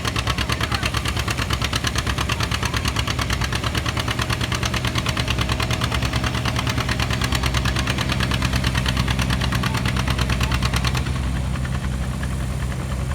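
Farm tractor engine running hard during a tractor pull, with a rapid, even chugging beat. Near the end the sharp top of the sound falls away as the engine eases off.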